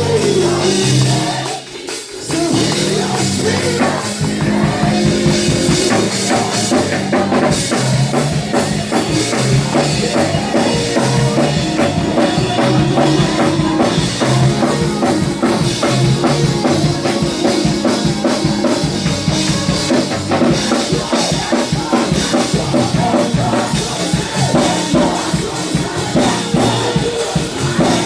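Live gospel praise-and-worship music: a band with drum kit playing a fast, steady beat, briefly dropping out about two seconds in before the full band comes back in.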